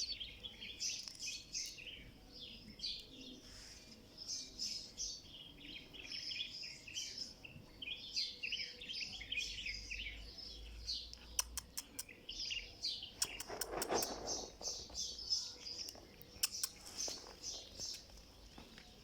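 Many small birds chirping busily in quick, high notes, with a few sharp clicks about halfway through and one short, louder, lower sound near the end.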